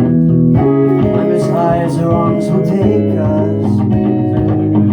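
Live guitar music: sustained, ringing chords that change about half a second in and again near the end.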